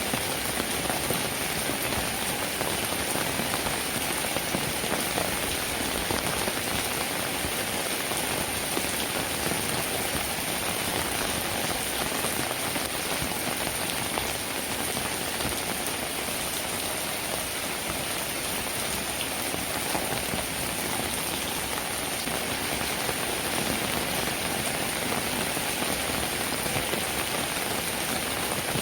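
Steady rainfall, with many fine drops pattering on a surface.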